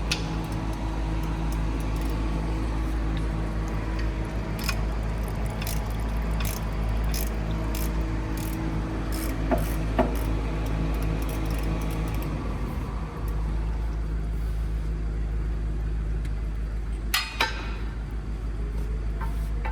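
Workshop machinery with a steady low hum and a droning tone that stops about two-thirds of the way through, over scattered sharp metallic clicks and clinks and a louder clatter near the end.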